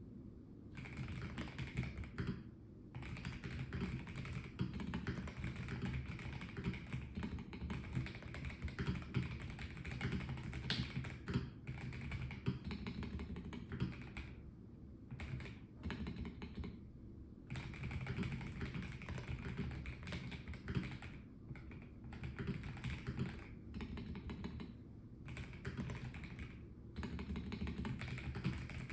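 Typing on a Melgeek Mojo84 Plastic mechanical keyboard: steady runs of key clicks and clacks broken by brief pauses.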